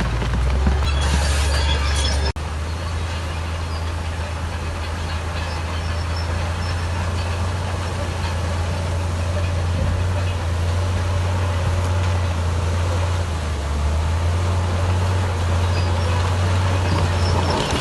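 Bulldozer's heavy diesel engine running steadily under load: a deep, constant drone with mechanical noise over it, cut off for an instant about two seconds in.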